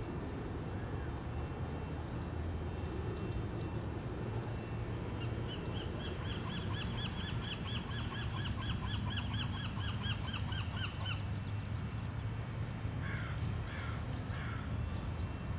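A bird calling in a fast series of short, arching chirps, about four a second, for about six seconds, then three short harsher calls near the end, over a steady low rumble.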